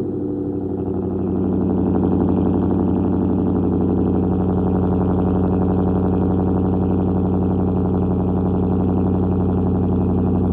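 Hyundai Genesis 4.6-litre V8 with resonators and mufflers deleted, idling steadily on quad exhaust tips just after a cold start. The exhaust note firms up about a second and a half in, then holds an even, loud idle.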